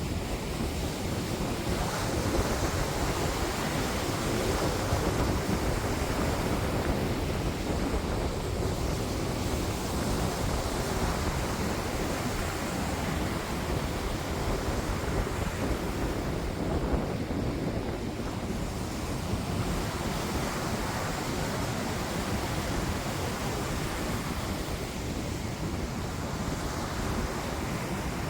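Steady wind buffeting the microphone, over the wash of sea waves.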